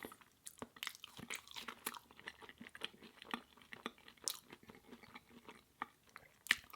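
Close-up chewing of a mouthful of mushroom burger with avocado: a steady run of small, irregular wet clicks and smacks from the mouth.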